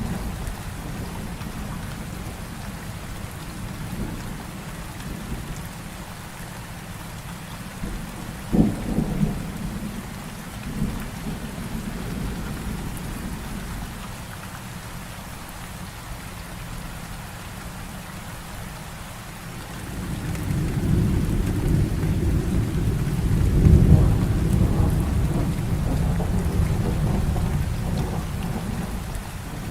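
Heavy rain falling steadily, with a sharp thunderclap about a third of the way in and a long low rolling rumble of thunder building in the second half.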